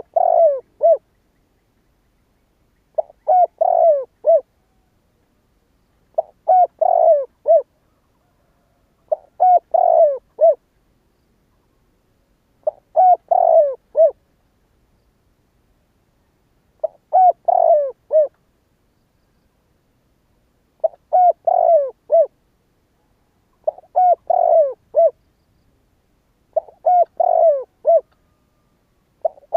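Spotted dove cooing: a phrase of several soft notes about a second long, repeated roughly every three to four seconds, about nine times. It is a decoy call used to lure wild spotted doves.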